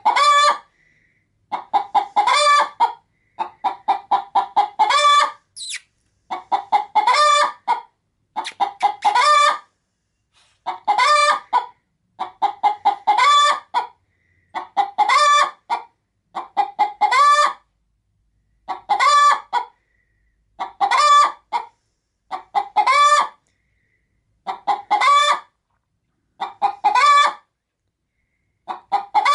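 Hen cackling in phrases repeated about every two seconds, each a run of quick clucks ending in a longer, louder drawn-out squawk. This is the cackle of a hen getting ready to lay an egg.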